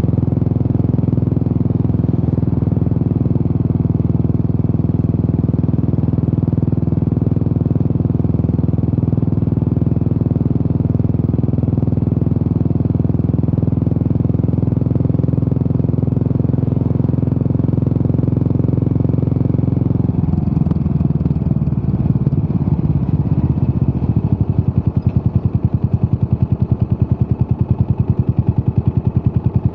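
Yamaha SR400's single-cylinder four-stroke engine running through a Peyton Place conti muffler. It holds an even engine speed at first, then about twenty seconds in drops to a slow idle where each separate exhaust pulse can be heard.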